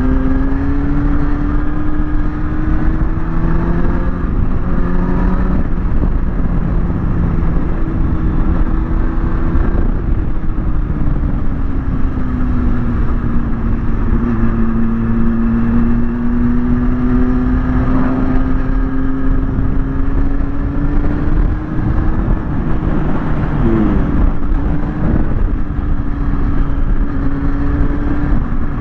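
Kawasaki ZX-6R's inline-four engine running at a steady cruise. Its pitch sags slowly and climbs back again, over a constant low rush of wind.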